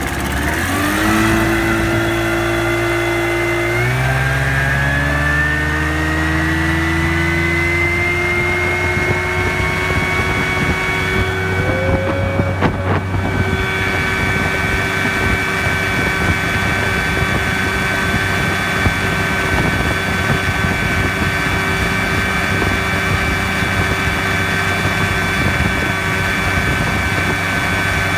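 1983 Evinrude 25 hp two-cylinder two-stroke outboard motor throttling up, its pitch climbing in steps over the first several seconds, then running steady at high speed as the boat goes along under full power.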